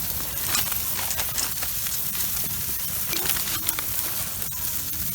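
Food sizzling on a grill over a campfire, with the fire crackling: a steady hiss broken by scattered small pops.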